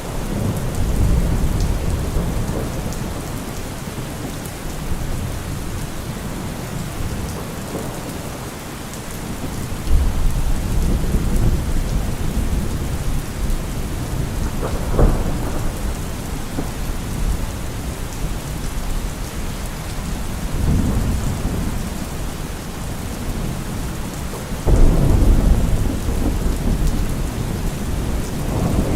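Heavy rain drumming on a car roof with rolling thunder. The thunder swells and fades several times, with a sudden loud clap about a third of the way through, a sharp crack near the middle and another heavy clap shortly before the end.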